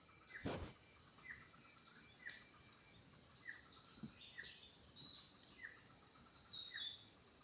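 Faint outdoor insect chorus, a steady high trill, with a short call repeating about once a second and a brief falling run of notes near the end.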